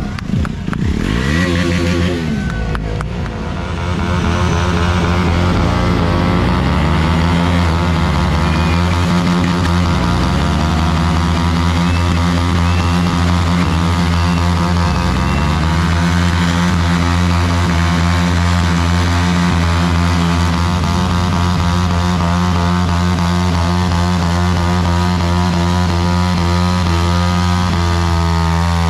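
Sport motorcycle engines held at high revs during burnouts, running loud and steady. The revs dip and climb back a few times in the first twenty seconds or so.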